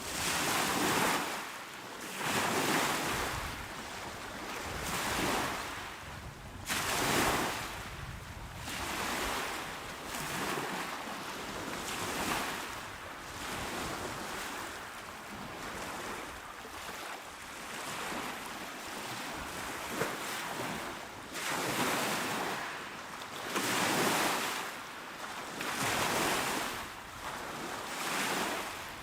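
Small waves washing onto a shore, one after another, each a rush of surf that swells and fades every couple of seconds, with a calmer spell in the middle.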